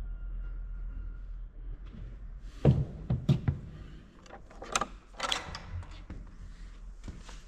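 A run of sharp knocks and thuds starting a little under three seconds in, followed by short scraping and rustling sounds, like handling or moving something wooden such as a door.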